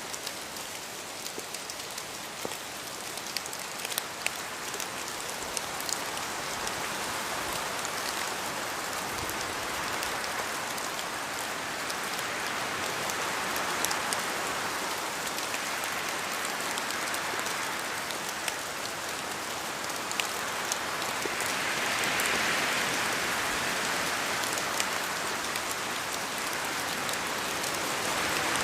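Steady rain falling in a forest, with many separate drops pattering and ticking as they fall from the trees. The hiss swells several times, with gusts of wind through the trees, and grows slowly louder toward the end.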